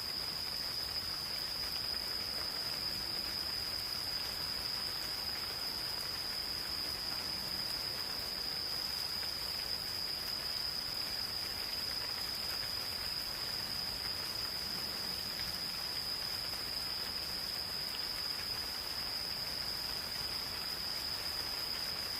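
Gentle rain falling on a forest, an even hiss with scattered drop ticks, under insects singing one steady, unbroken high-pitched trill.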